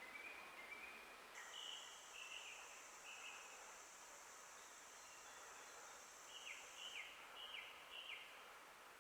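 Faint forest birdsong: short chirped phrases, and near the end four quick downward-slurred notes at about two a second. A steady high, thin buzz runs underneath for about five seconds and stops abruptly.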